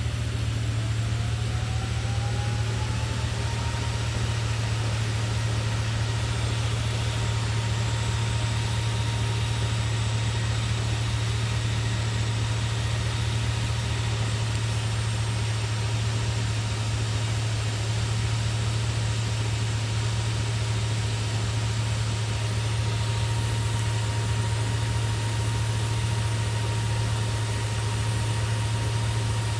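A motor running steadily: a strong low hum, with a thin whine that rises over the first three seconds or so and then holds steady.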